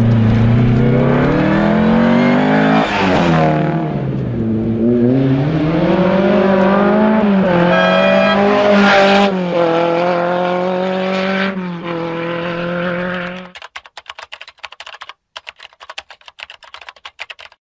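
Rally car engine at full throttle, its pitch climbing and then dropping sharply several times as the driver changes gear or lifts off. The engine sound cuts off suddenly about 13 seconds in, leaving only faint scattered clicks.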